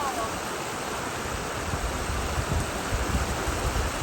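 Stream water flowing steadily, an even continuous rush.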